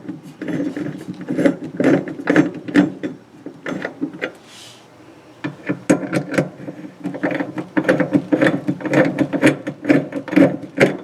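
Ratchet wrench clicking in quick runs of strokes as fasteners are driven, with a pause of about two seconds near the middle.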